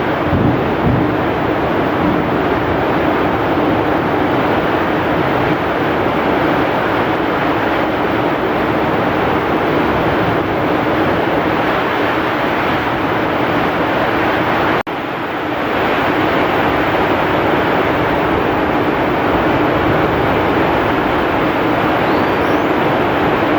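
Heavy rain falling steadily with strong wind, a dense unbroken hiss. There is a sudden momentary dip about two-thirds of the way through, where the recording breaks and resumes.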